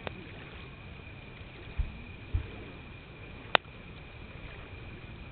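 Wood campfire burning with a steady low hiss and two sharp pops of burning wood: a small one right at the start and a louder one about three and a half seconds in. Two dull low thumps come in between.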